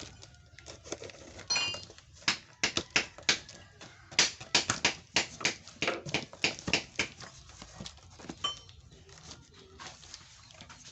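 A quick series of sharp clicks and taps, with two short high chirps, one early and one late.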